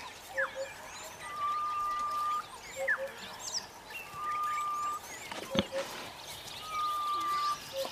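Bird calling repeatedly: each phrase has short low notes and a quick upward note, then a long level whistle, heard three times, with faint high chirps of other birds behind. A single sharp click about five and a half seconds in.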